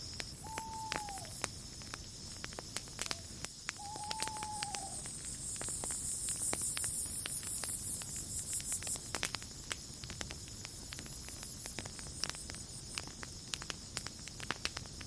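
Campfire crackling with frequent sharp pops, over a steady high trill of crickets and insects that swells for a few seconds mid-way. Two short whistled notes come about half a second and about four seconds in.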